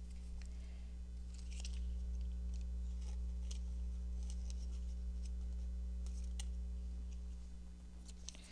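Paper and small craft pieces being handled, giving scattered crisp clicks and rustles, over a low steady rumble that swells after a second or so and fades near the end.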